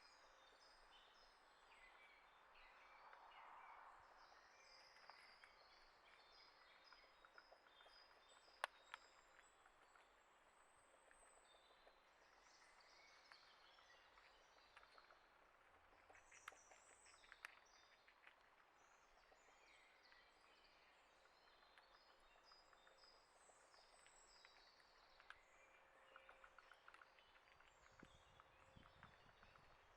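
Faint outdoor ambience with small birds chirping and calling throughout, plus scattered light clicks and taps, one sharp tick about nine seconds in.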